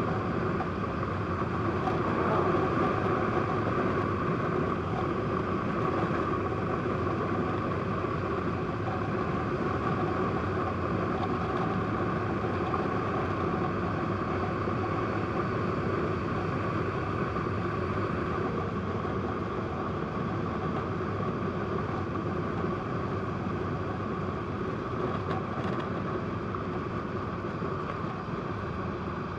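Honda PC800 motorcycle's V-twin engine running steadily while riding, mixed with wind and road noise.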